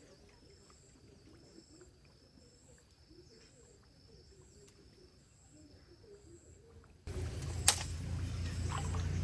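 Faint outdoor ambience with a small animal's high call repeating about twice a second, alternating between two pitches. About seven seconds in, a much louder steady low rumble starts abruptly, with one sharp click soon after.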